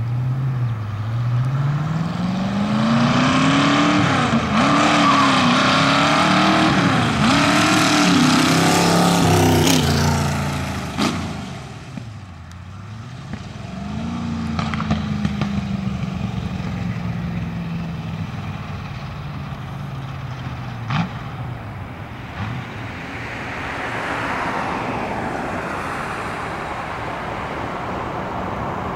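1929 roadster pickup's engine accelerating hard, its pitch climbing and dipping several times through the first ten seconds, then fading. It comes back running steadily at a slowly falling pitch, and a vehicle passes near the end.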